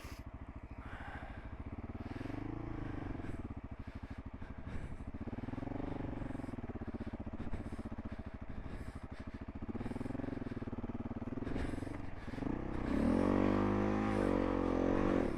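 Single-cylinder dual-sport motorcycle engine running at low speed, its revs rising and falling with several short blips of the throttle, then a longer, harder rev about two-thirds of the way through.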